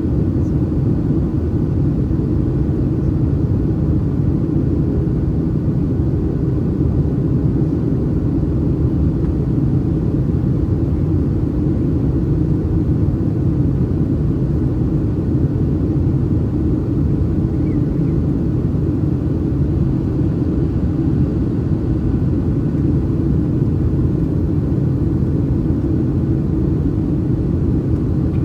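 Steady in-flight cabin noise of a Boeing 737-800 heard from an over-wing economy seat: the low rumble of the CFM56 engines and airflow, even and unchanging throughout.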